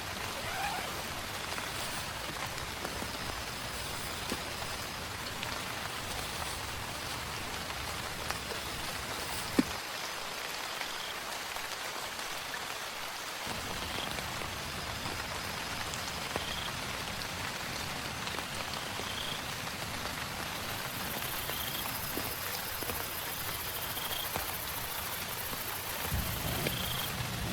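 Steady rain falling, with scattered drop taps and one sharp tap about ten seconds in. A faint, short, high chirp repeats every couple of seconds in the second half.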